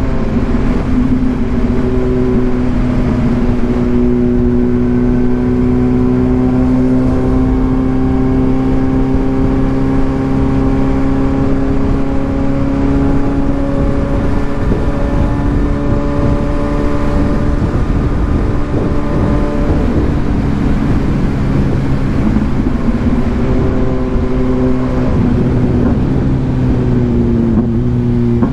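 2022 Kawasaki Ninja 1000SX's inline-four engine, breathing through an aftermarket AR exhaust, pulling at a nearly steady speed. Its pitch drifts only slightly and dips briefly near the end, over a steady rush of noise.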